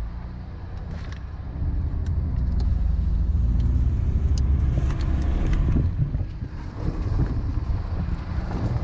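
5.9-litre Cummins turbo-diesel engine running, a grumbly diesel sound with light ticking; it gets louder about a second and a half in.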